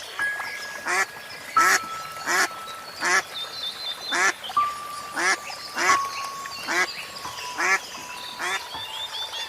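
Short animal calls repeated over and over at an even pace, about one to two a second, with thin held whistles faintly behind them.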